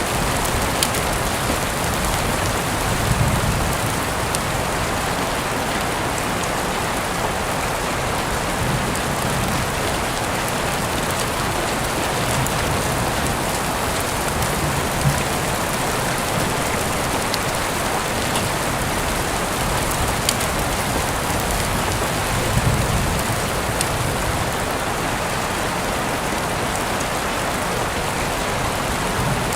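Heavy rain falling steadily, a dense even hiss with scattered sharper drop ticks. A few brief low thumps come through about 3, 15 and 22 seconds in.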